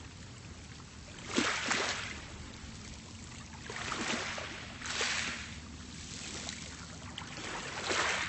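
Small, calm sea waves washing onto a pebble beach, three gentle surges with a crackle of water running through the stones, over a steady low sea hiss.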